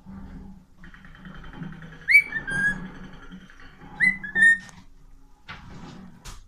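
Cockatiel whistling its song: two short phrases, each a quick upward-swooping note followed by a held note.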